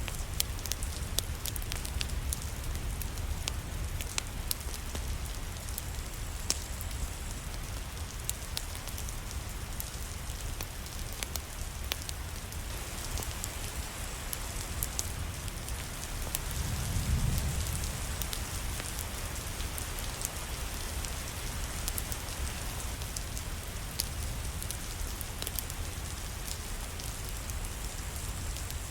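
Steady rain with a wood fire crackling: an even hiss with scattered sharp clicks and a low rumble underneath. A low swell rises and fades a little past the middle.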